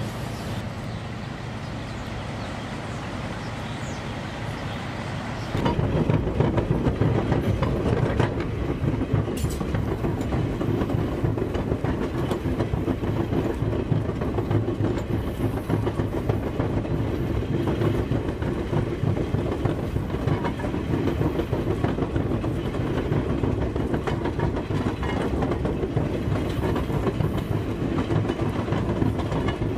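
A train rolling on the rails: a steady rumble with wheel clatter that jumps suddenly louder about five and a half seconds in.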